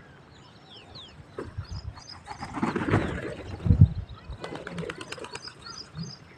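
Pigeons cooing, with two short falling chirps from small birds about a second in.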